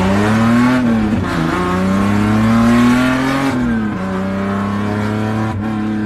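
BMW E30's swapped-in S52 straight-six running through a straight-pipe exhaust and accelerating: the pitch climbs, drops at a gear shift about a second in, climbs again to a second shift past the middle, then holds steady.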